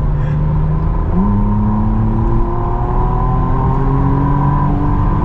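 Engine of a McLaren hybrid supercar heard from inside the cabin on track; its note jumps up in pitch about a second in, then climbs slowly as the car pulls.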